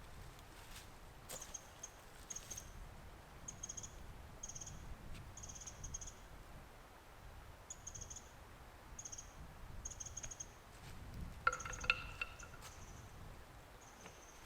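Short high-pitched chirps repeating every half second to a second from a small wild animal. A brief, louder call with several tones comes near the end, over a faint low rumble.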